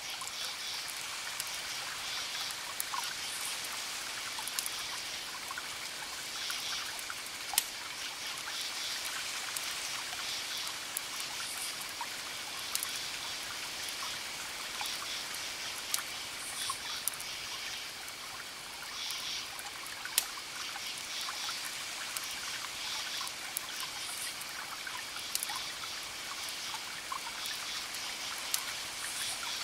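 Crackling wood fire: sharp isolated pops every few seconds over a steady hiss, with a background chorus of rhythmic chirping calls.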